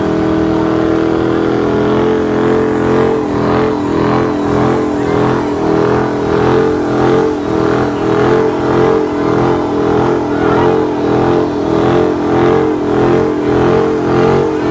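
Car engine held at high revs in a burnout with the tyres spinning. After the first couple of seconds the revs pulse up and down in a regular rhythm, about one and a half times a second.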